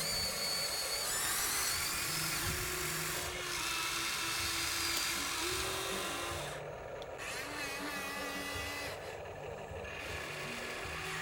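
Small electric motors and gearboxes of radio-controlled construction models whining, the pitch shifting and the sound dropping back briefly a couple of times as the motors change speed and stop.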